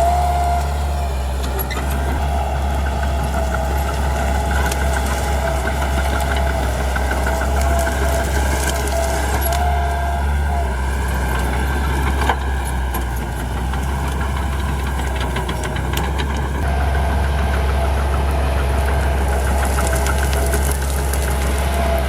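Bulldozer diesel engine running steadily under load with rhythmic track clatter and a high whine that comes and goes. A single sharp crack about twelve seconds in.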